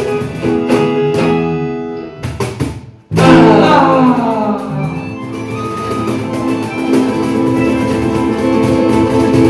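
A band led by guitars playing a song live. The music thins out and breaks off for a moment about three seconds in, then comes back with a loud full chord that rings on while the strumming continues.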